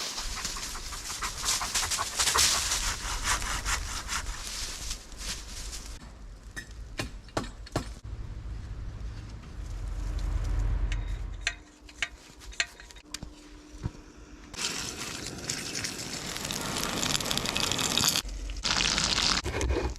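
Wood being sawn and rubbed by hand in several short stretches that change abruptly, with scattered sharp snaps and clicks.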